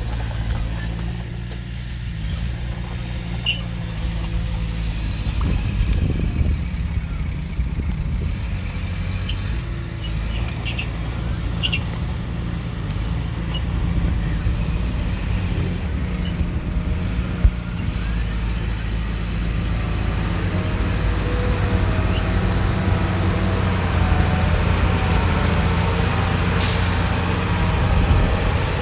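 Heavy-machinery diesel engine running steadily, with scattered metallic clicks and clanks. There is a short hiss near the end.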